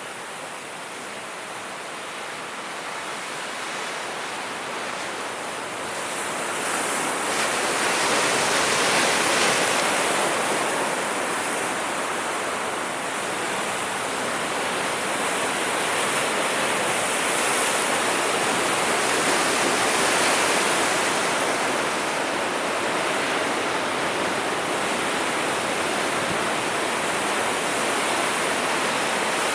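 Sea waves breaking and washing in as a steady rush of surf, which swells louder about seven seconds in and stays loud.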